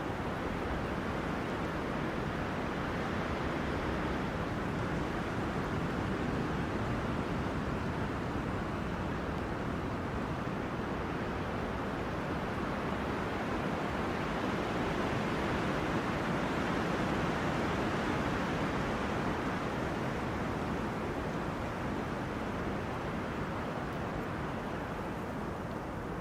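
Wind rushing through tree crowns in gusts, a steady rustling roar that swells gently and eases again.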